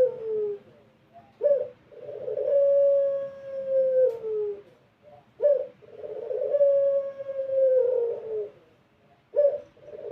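Puter pelung, a long-cooing Barbary dove, cooing repeatedly: each call is a short sharp note followed by a long drawn-out coo that drops in pitch at the end, about three calls in all, one every four seconds or so.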